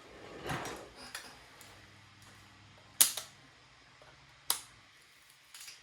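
A few small handling noises at a workbench: two sharp clicks or taps, about three seconds in and again a second and a half later, with soft rustling around them.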